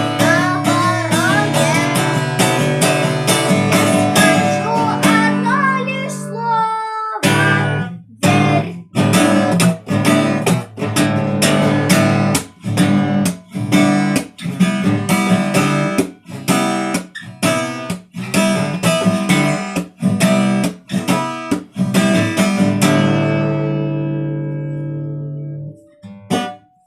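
Acoustic guitar strumming chords, with a sung or melodic line over them for the first few seconds. After a short break it plays sharp rhythmic strums that are cut off between strokes, then ends on a final chord that rings out and fades.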